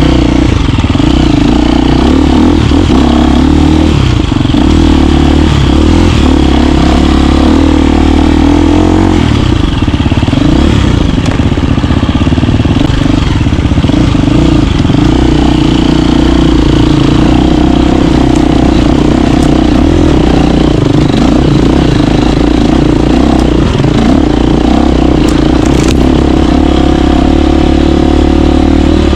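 KTM 350 dirt bike's single-cylinder four-stroke engine running under way, its revs rising and falling as it is ridden.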